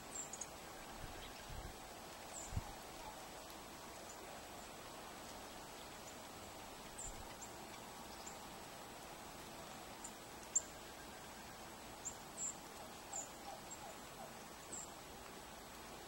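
Small birds giving faint, very high, thin call notes, short and scattered, over a steady outdoor hiss. There is a soft low knock about two and a half seconds in.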